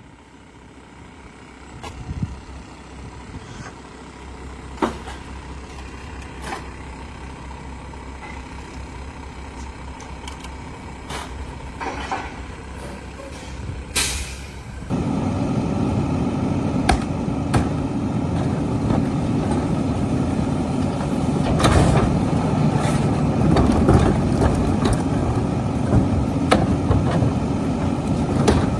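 Garbage truck running close by with scattered knocks. About halfway through there is a short hiss of released air, and then the sound gets suddenly louder and busier, with engine noise and repeated clanks.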